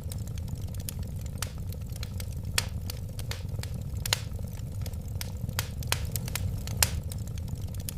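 Wood fire burning: a steady low rumble of flames with frequent sharp crackles and pops, a few of them louder than the rest.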